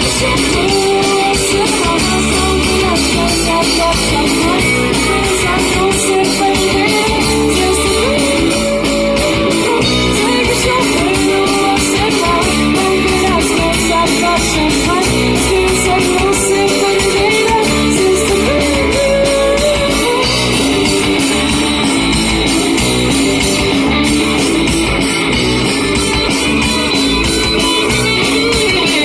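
Live rock band playing loud and steady, led by electric guitar.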